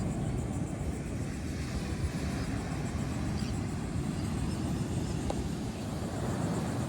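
Wind buffeting the microphone in a steady, uneven low rumble, with ocean surf underneath.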